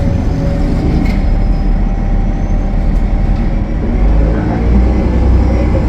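Cummins ISL9 diesel engine and road noise of a 2015 Gillig Low Floor 40-foot transit bus cruising on the highway: a loud, steady low rumble that gets heavier about four and a half seconds in.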